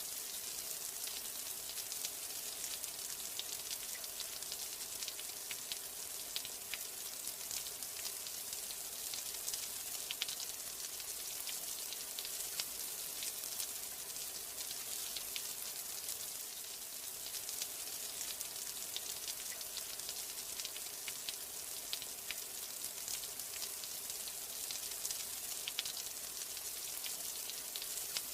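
Steady rain: a dense, even hiss of falling rain, strongest in the highs, with many small sharp drop ticks scattered through it.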